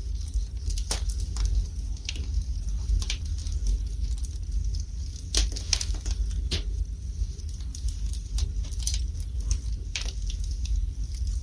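Wood fire burning in a fireplace, crackling and popping at irregular intervals, over a steady low rumble.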